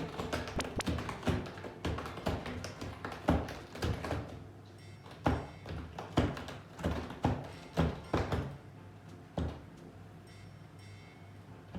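A cat raking its claws over a wall-mounted scratcher in a series of rough strokes, quick at first, then slower and spaced out, stopping near the end. Background music plays throughout.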